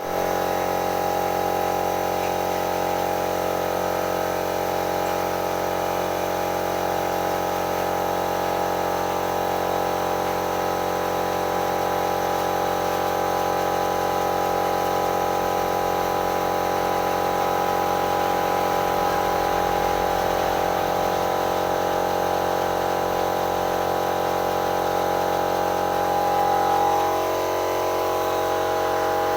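Pressure washer pump running steadily, with water spraying, as a motorcycle is washed. Its pitch shifts briefly near the end.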